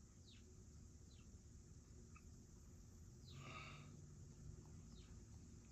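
Near silence, with a few faint, short, high falling chirps from birds in the background.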